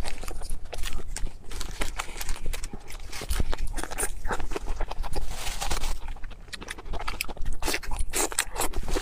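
Close-miked mouth sounds of a person biting and chewing juicy star fruit: wet, crackly chewing with many rapid clicks, and a brief hissing slurp about five seconds in.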